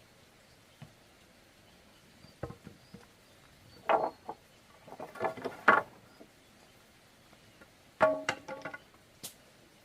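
Hollow bamboo poles knocking and clattering together in a few quick clusters of strikes, each knock leaving a short pitched ring.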